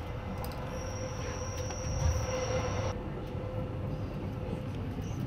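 Rhaetian Railway train running on the Albula line: a steady rumble of the wheels on the track. About a second in, a high steady wheel squeal sets in, lasts about two seconds and stops abruptly.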